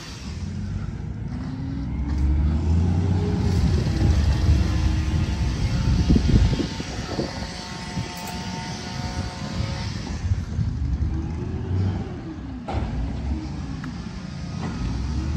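Garbage truck's diesel engine revving up and down several times, each rise and fall in pitch taking about two seconds, over a heavy low rumble.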